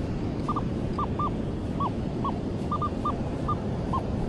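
A bird calling in short, repeated chirps, some in quick pairs, over a steady rush of surf and wind noise.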